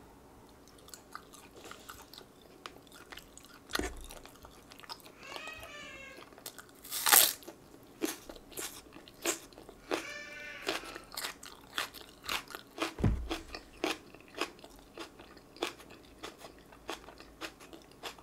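Close-up eating sounds: fried chicken and raw green onion being bitten and chewed, a run of crisp crunches with the loudest about seven seconds in.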